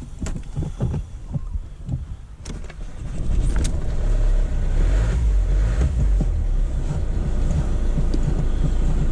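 A few knocks and clicks. About three seconds in, the Ford Transit's 2-litre engine starts and runs with a steady low rumble. It is its first start after standing for three weeks.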